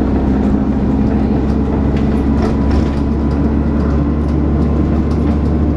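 Dennis Trident 2 double-decker bus running steadily under way, heard from on board: a low, even engine drone with a thin steady whine over it, the 'hoovering' sound, and light rattles of the bodywork.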